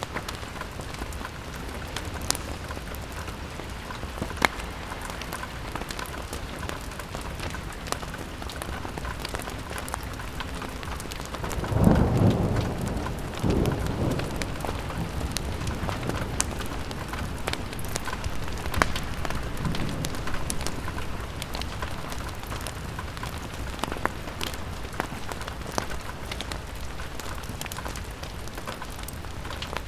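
Steady rain on a window, with scattered sharp ticks. A loud, low roll of thunder comes about twelve seconds in, with fainter rumbles a few seconds after.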